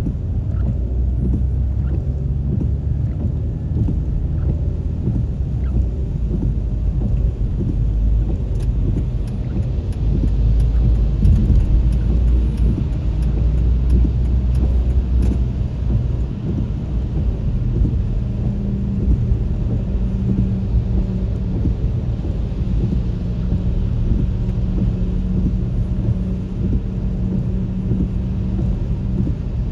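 Road traffic noise: a steady low rumble of engines and tyres. A droning engine note joins in a little over halfway through.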